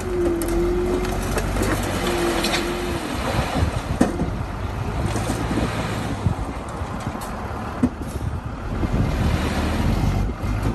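Komatsu bulldozer's diesel engine running, with a steady squeal about a second long at the start and again briefly about two seconds in, and a few sharp metallic clanks, the loudest about four seconds in.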